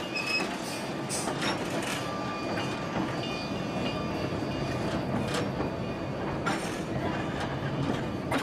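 Narrow-gauge passenger train rolling slowly, heard from aboard: a steady rumble of wheels on rail, broken by irregular clicks and clanks and brief thin high wheel squeals.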